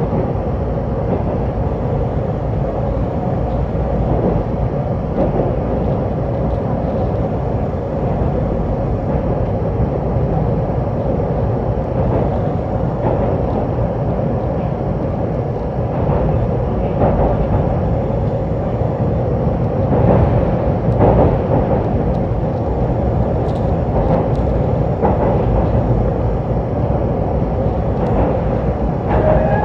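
Train running over a railway bridge, heard from on board: a steady rumble of wheels on rails with a steady hum and scattered clacks, getting louder about two thirds of the way through.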